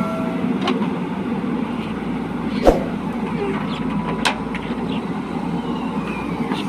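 Heavy diesel machinery running steadily, with a sharp metallic knock about two and a half seconds in and a lighter one about four seconds in.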